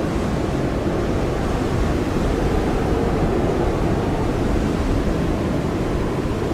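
Blizzard wind blowing hard and steadily: a deep, continuous rush with a faint whistle above it.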